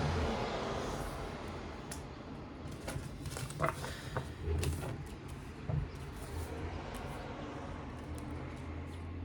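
Tarot cards being handled on a table: a few scattered soft taps and slides over a low steady hum.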